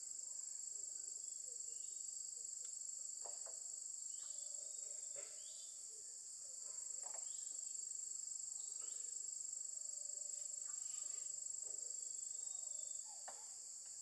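Steady, high-pitched chorus of insects, unbroken throughout, with faint scattered knocks and taps beneath it.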